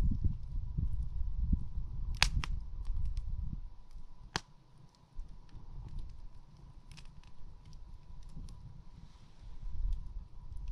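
Campfire crackling, with a few sharp pops about two, four and seven seconds in and one at the very end, over a low rumble that is louder in the first half.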